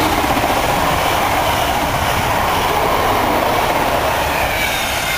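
A Greater Anglia Class 90-hauled intercity train passing close at speed: a steady, loud rush of wheels on rail and coaches going by.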